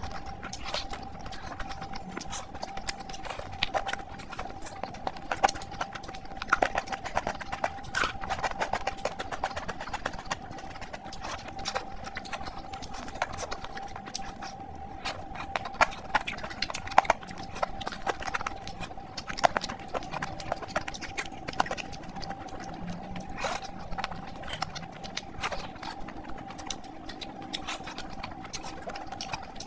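Close-miked chewing and lip-smacking while eating spicy chicken curry with the fingers: many short wet mouth clicks and smacks at an irregular pace, over a steady faint tone.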